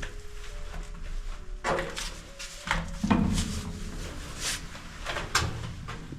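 Footsteps walking at an even pace, about two steps a second, each step a sharp scuff or crunch underfoot.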